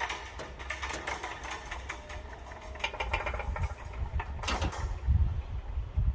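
Diesel rail vehicle's engine running at idle: a low rumble with a rattling clatter over it that dies down about five seconds in.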